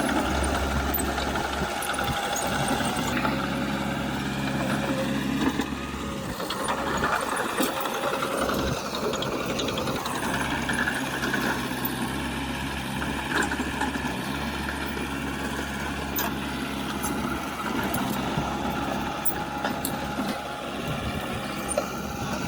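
Diesel engine of heavy earthmoving machinery running steadily under work, with a few faint clicks.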